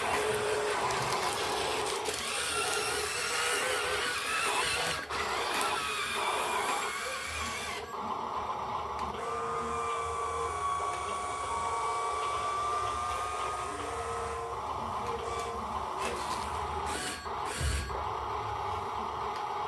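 A machine running steadily, with a whine near the middle that rises and falls a little in pitch.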